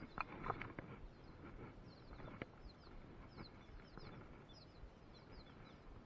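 Small birds chirping, with many short, quick high notes that slide downward, repeated throughout. A few sharp clicks, mostly in the first second, from footsteps on loose rocks.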